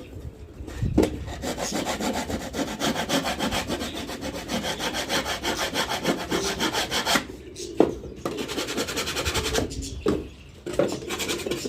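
Rapid, even scraping strokes against wood for about six seconds, then a single knock and a few shorter bouts of scraping.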